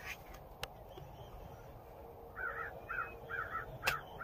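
A bird calling in a quick run of short, repeated calls, about three a second, from about halfway in. A few sharp clicks come through as well, the loudest near the end.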